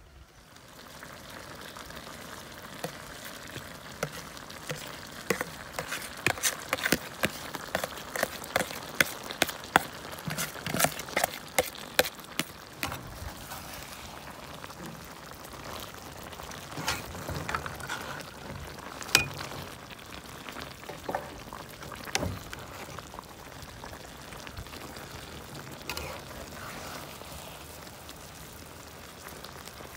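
Kale and canned fish frying in a saucy wok on a portable gas stove, sizzling steadily, with a metal ladle clinking and scraping against the wok as it is stirred, the clinks busiest in the first half.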